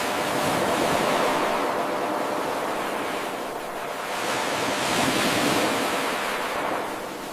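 Ocean surf washing in, a steady hiss that swells twice and ebbs away near the end. It is an eight-second wave recording played on repeat, and the level jumps up suddenly at the start where the loop begins again.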